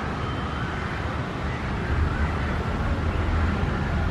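Low, steady rumble of a passing train, a little louder about two seconds in, with a faint wavering whine above it.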